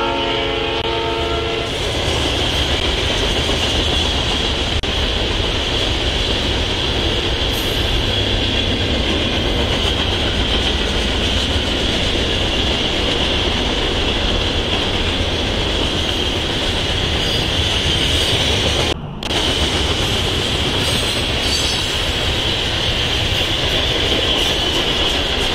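Freight train on the Norfolk Southern Chicago Line rolling through a grade crossing: the locomotive horn ends about a second and a half in, then a steady rumble and clatter of freight cars passing over the rails, broken by a brief dropout about 19 seconds in.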